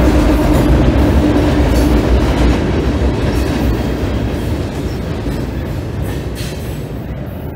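Diesel freight train crossing a steel trestle overhead: a heavy rumble with wheel clatter, and the locomotive's engine hum drops away about two seconds in. The noise slowly fades as the last cars roll past.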